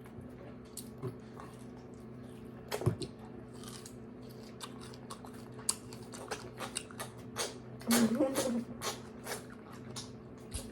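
Close-up eating sounds of someone biting into and chewing a large ripe strawberry: a scattered run of small wet mouth clicks and smacks, with a short murmur about eight seconds in.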